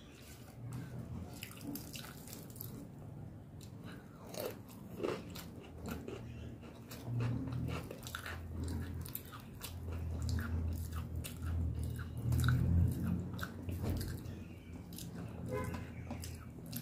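Close-miked chewing and biting of mouthfuls of rice and crisp fried topse fish, with many small crunches and wet mouth clicks.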